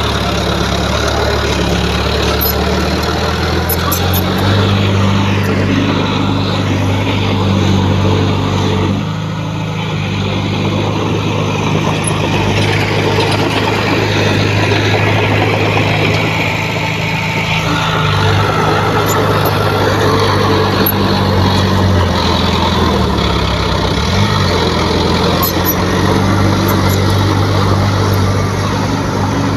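Heavy-equipment diesel engine running, its pitch stepping up and down several times as the engine speed changes, with a brief dip about nine seconds in.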